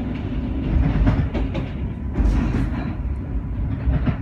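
Moving train heard from inside the carriage: a steady low rumble with the wheels clattering over rail joints in several quick clusters, while another train rushes past close by on the next track.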